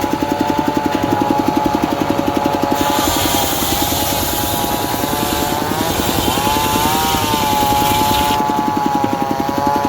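Diesel-engine-driven circular saw running with a fast, even engine chug under a whining blade. From about three seconds in until about eight seconds a hiss is added as the blade cuts teak, and the whine dips and wavers about six seconds in as the cut loads the blade.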